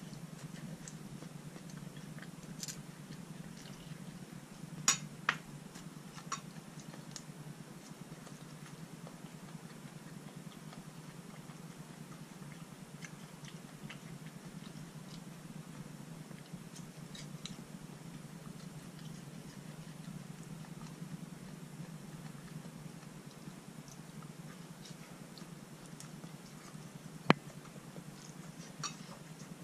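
A person quietly chewing and eating malatang, with a few sharp clicks of chopsticks against a ceramic bowl, the loudest near the end. A steady low hum lies under it.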